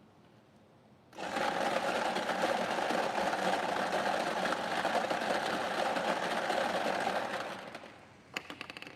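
Electric lottery ball machine running for about six seconds, its motor and blower churning the numbered balls in a dense rattling noise, then winding down, followed by a quick run of clicks near the end as a ball is drawn.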